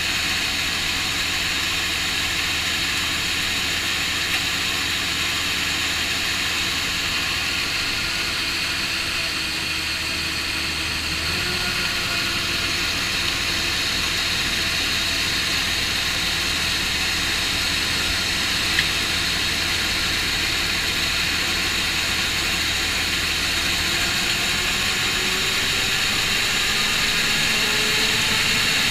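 New Holland TX5090 combine harvester running steadily during soybean harvest, its engine and threshing machinery making a continuous hum and whir. The engine note steps up slightly about eleven seconds in and climbs slowly near the end.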